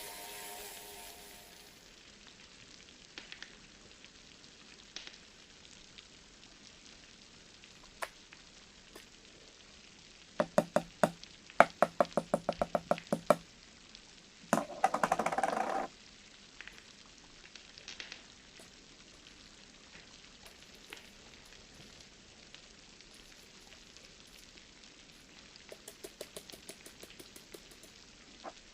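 Home cooking sounds from utensils and pans: a run of quick, even taps lasting about three seconds, then a short hiss of about a second and a half, with faint scattered clicks around them.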